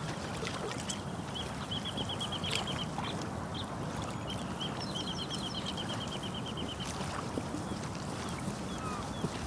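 Small birds calling: two long, even trills of rapid notes, one about two seconds in and a longer one from about five to seven seconds, with short series of higher chirps around them, over a steady outdoor hiss.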